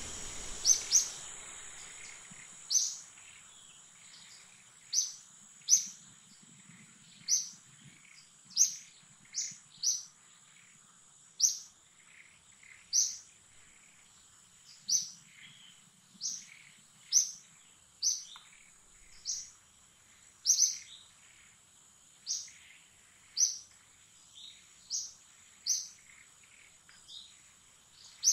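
A bird giving short, sharp, high-pitched chirps, each dropping quickly in pitch, repeated irregularly about once a second. Behind them runs a steady high-pitched insect drone.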